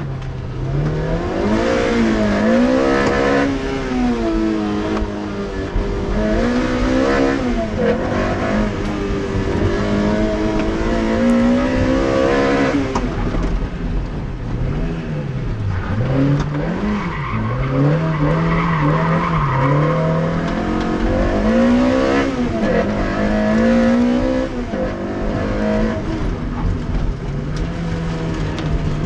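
Toyota MR2 Spyder's 2ZZ-GE four-cylinder engine driven hard, its pitch rising under acceleration and dropping off again and again, heard from inside the cabin, with tyre noise underneath.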